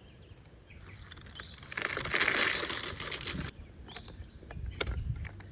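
Small birds' wings fluttering as they come and go at a feeder, loudest about two seconds in, with short high chirps and a few sharp clicks near the end.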